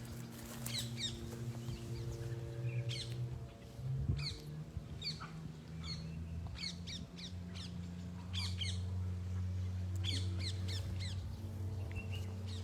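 Birds calling outdoors in a run of short, repeated chirps scattered through the whole stretch, over a steady low hum.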